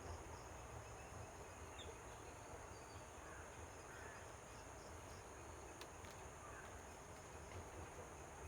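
Faint, steady high-pitched insect chorus, with a few short, faint bird chirps and a low rumble underneath.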